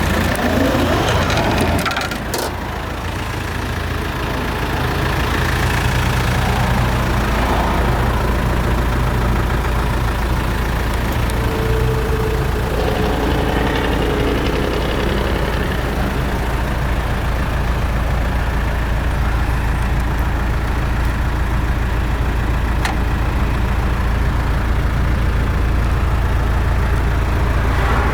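Land Rover Defender Wolf's 300Tdi turbo-diesel engine idling steadily, heard from inside the cabin. There is a sharp knock about two seconds in.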